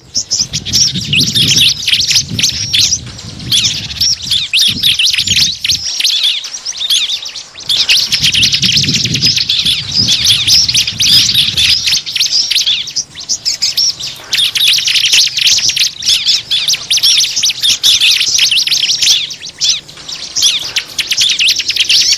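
Dense, rapid chirping and twittering of small birds, a lure call used to draw small birds in. A low rumble runs underneath in two stretches, early and around the middle.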